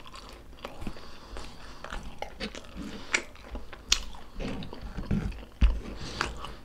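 A person chewing and biting into stuffed squid in spicy adobo sauce, wet mouth sounds with sharp clicks scattered throughout.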